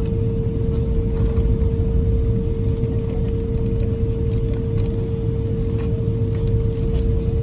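Airbus A350-1000 cabin noise: the engines' steady roar, with a constant hum held at one pitch and light rattling clicks from the cabin fittings.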